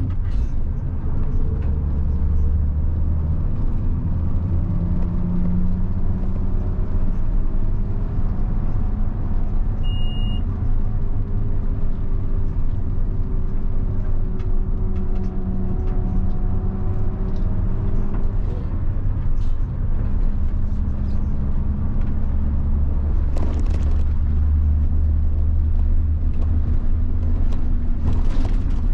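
Diesel engine of a 1990 Mitsubishi Fuso bus running, a steady low rumble whose pitch drifts slowly up and down. A brief high beep sounds about ten seconds in, and there are a couple of short knocks near the end.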